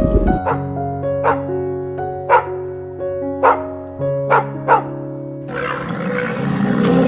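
A dog barking six short times over calm background music, then a louder, rougher animal sound begins near the end.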